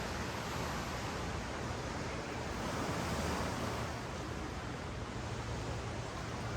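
Ocean waves washing up and down a sandy beach, a steady hiss of surf that swells a little about three seconds in.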